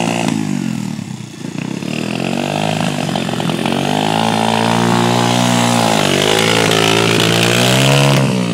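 Dirt bike engine revving unevenly under a novice rider: it rises and falls in pitch several times, climbing to its highest just before the end and then dropping away.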